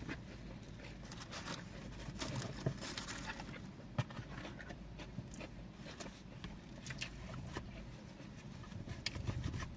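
Quiet eating noises: chewing and mouth sounds as cheesesteak subs and fries are eaten, heard as soft irregular clicks and crackles with a couple of sharper clicks.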